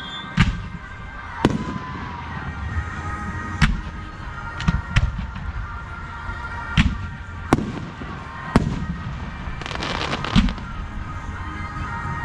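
Aerial fireworks bursting in a display: about nine sharp bangs at irregular intervals, with a dense burst of crackling shortly before ten seconds in.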